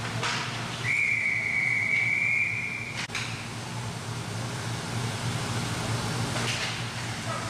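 Referee's whistle blown once, a steady shrill tone held for about two seconds, stopping play in an ice hockey game. A sharp knock comes just as it ends, over a steady low hum from the rink.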